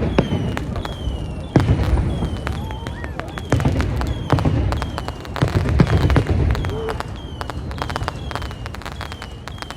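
Fireworks display: several deep booms of shells bursting, with sharp bangs and rapid crackling between them. A short, high, falling tone repeats steadily about twice a second.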